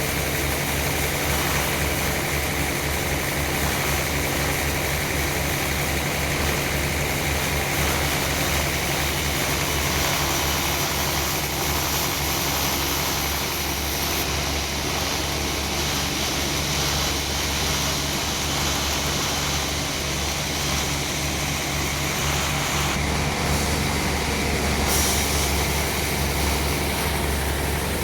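Sawmill machinery running steadily: a constant engine or motor hum under dense mechanical noise, with no pauses.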